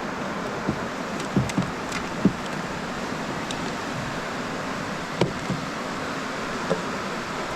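Steady rain falling, an even hiss with scattered louder drops tapping at irregular moments.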